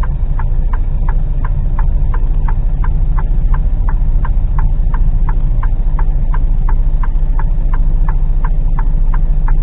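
A lorry's turn indicator ticking evenly, about three ticks a second, signalling a turn, over the steady low drone of the diesel engine heard inside the cab.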